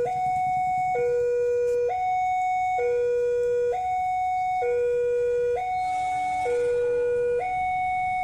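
Two-tone hi-lo emergency-vehicle siren, alternating steadily between a lower and a higher note, each held just under a second.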